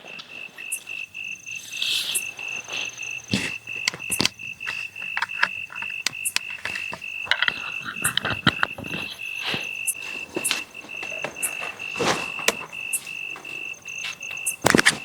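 A cricket trilling steadily in one high, rapidly pulsing note that breaks off just before the end, over scattered sharp crackles and clicks.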